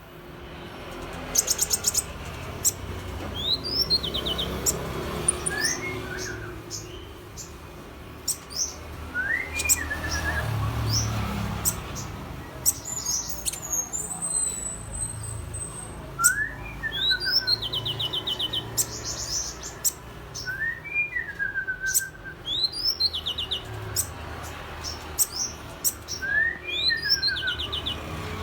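A sunbird singing in imitation of an oriental magpie-robin's song: every few seconds a phrase of rising then falling whistled notes with quick high trills, among many short sharp ticks. A low rumble runs underneath.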